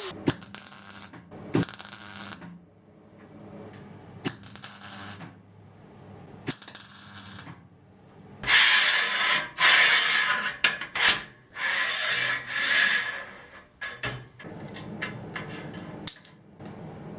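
Hand work on steel in a workshop: a series of scraping strokes with metal clinks and knocks between them, the loudest run of about five strokes coming just past the middle.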